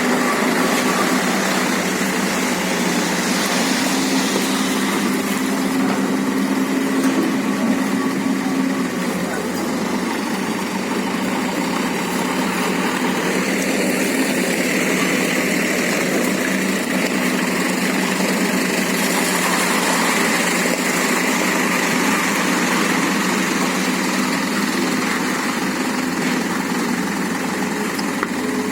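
Excavator's diesel engine running steadily at working speed.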